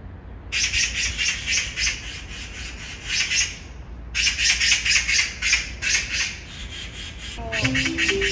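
Magpie giving a harsh, rapid, rattling chatter of about six or seven rasping notes a second, in two long runs with a short break between them.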